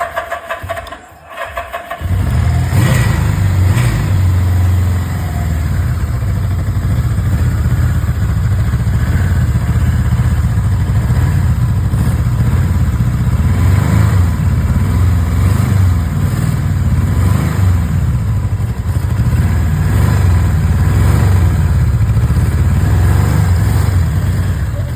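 1982 Suzuki GSX750's air-cooled inline-four being cranked on the starter, catching about two seconds in, then running steadily for some twenty seconds before it is shut off near the end. After years of sitting, it is not lifting up the revs properly.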